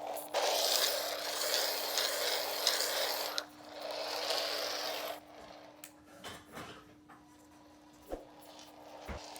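Two stretches of dry, rasping mechanical noise, each a few seconds long, followed by quieter scattered clicks and taps, over a steady low hum.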